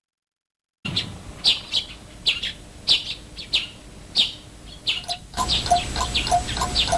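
Birdsong: short, quick falling chirps, a few to a second, starting about a second in after a moment of silence. Around five seconds in, a run of short, evenly spaced peeps joins the chirping.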